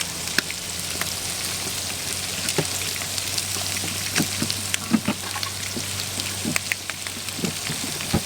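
Food sizzling, with scattered pops and crackles over a steady hiss and a steady low hum underneath.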